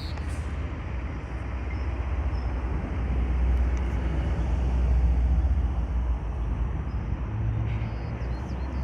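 A passing vehicle: a low traffic rumble that swells to its loudest about halfway through, then eases off.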